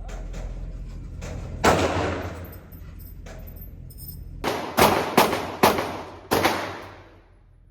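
Gunshots at a shooting range: a single loud shot, then about three seconds later a quick string of about five shots, each followed by a ringing echo. Fainter shots come before them.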